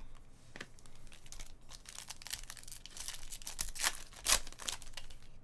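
Foil trading card pack wrapper being torn open and crinkled in the hands: a run of crackling rips that thickens about two seconds in, with the loudest tears near the end.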